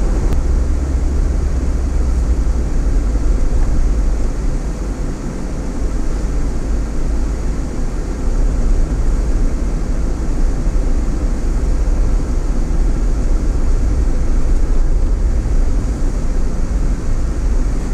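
Steady road and engine rumble heard from inside a moving vehicle's cabin.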